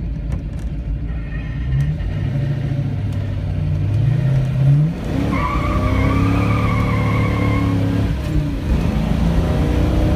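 1970 Ford Boss 302 Mustang's V8 under hard acceleration, revving up through the gears with shifts about five seconds in and again near the end. A high wavering squeal rides over the engine for a couple of seconds after the first shift.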